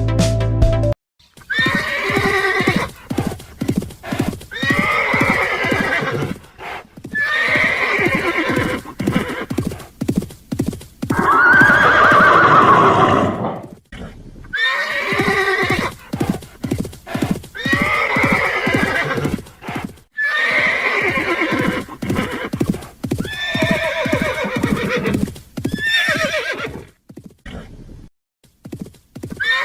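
Horses neighing: a long run of loud whinnies one after another, each a second or two long with short gaps between them. The loudest and longest comes about twelve seconds in, and shorter ones come near the end.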